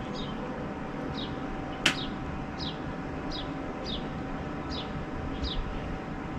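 A bird giving a short falling chirp over and over, about every 0.7 seconds, over a steady low hum; one sharp click about two seconds in.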